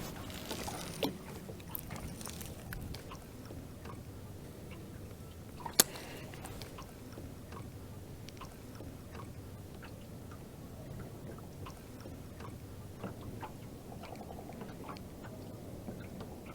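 Scattered small clicks and taps over a faint low steady hum, with one sharper click about six seconds in.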